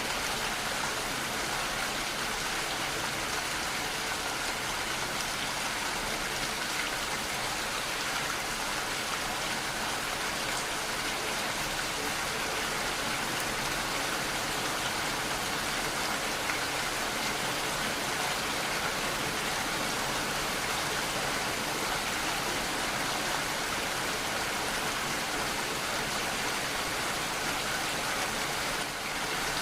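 Steady rain falling, an even, unbroken hiss of rainfall with no thunder.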